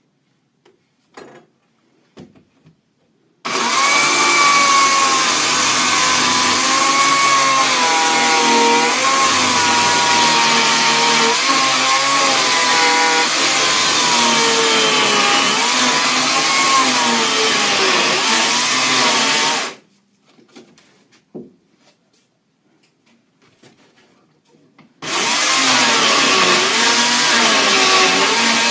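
Handheld electric power tool cutting under load, its motor pitch wavering as it bites. It runs in two stretches: a long one of about sixteen seconds starting a few seconds in, then a shorter one near the end.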